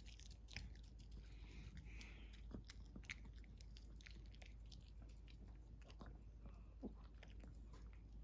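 A Yorkshire terrier chewing a crunchy treat: faint, irregular crunching clicks.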